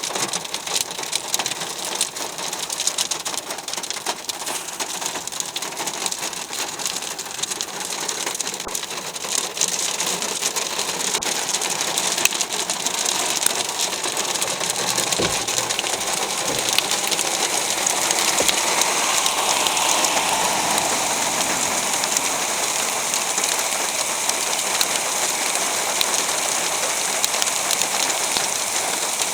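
Heavy rain and hail from a thunderstorm pelting down: a dense rain hiss scattered with many sharp ticks of hailstones striking, growing heavier about halfway through.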